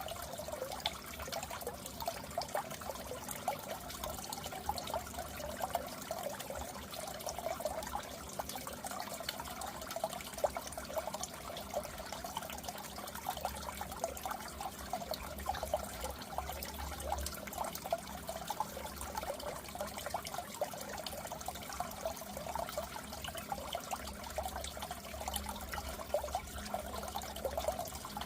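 Goldfish aquarium water trickling and bubbling steadily, with a low hum that comes and goes underneath.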